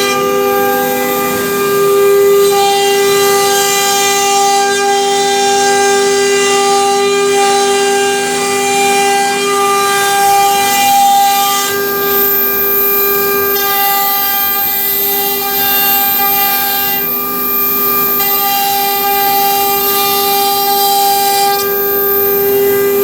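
CNC router spindle whining steadily at a high, even pitch while cutting a design into an MDF board, with cutting hiss over it. The tone and hiss shift several times as the cut's load changes.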